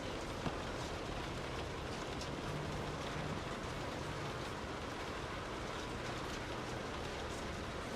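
Steady rain falling, an even hiss with no break, with one sharp drop-like tick about half a second in and a faint low hum a few seconds in.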